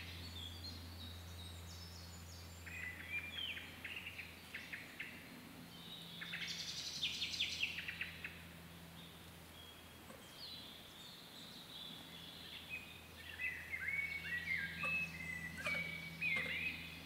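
Small songbirds singing in woodland: several runs of quick chirping phrases, the loudest around the middle and another cluster near the end, over a steady low hum.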